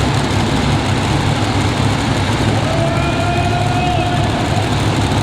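High-horsepower tractor-pull engine running loud and steady at full power, a deep continuous roar with a faint higher tone drifting in about halfway through.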